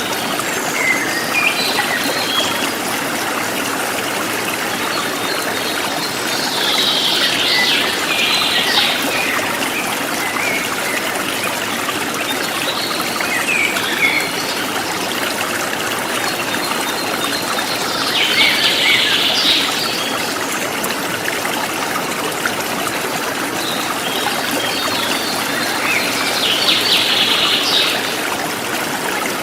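A forest stream flowing steadily, with birds chirping over it; a brighter burst of song comes three times, about every ten seconds, with scattered single chirps between.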